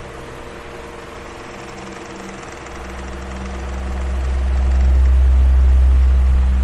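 Electric fan running with a steady whir and a faint hum. A deep low rumble swells up about halfway through and eases off near the end.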